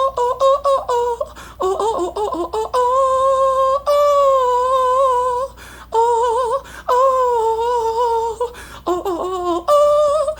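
A person humming a wordless tune in a high voice: held notes that waver in pitch, in several phrases broken by short pauses.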